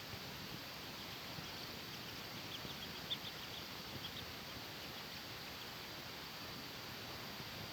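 Steady hiss of outdoor background noise, with a scattered run of short, faint high chirps about one to four seconds in and one slightly louder tick near the middle.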